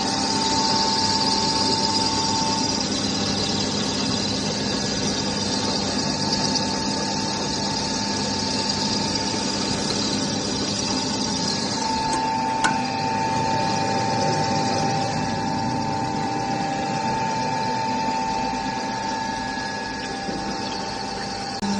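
Floating fish-feed pellet extruder running: a steady mechanical drone with a high whine that fades in and out. A single sharp click comes about halfway through.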